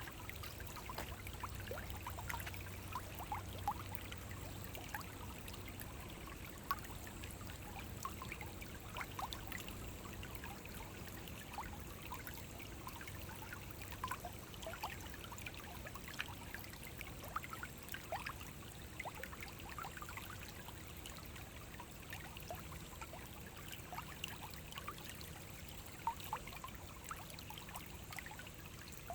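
Small forest stream flowing over rocks, a steady rush of water with lots of little bubbling, plinking splashes.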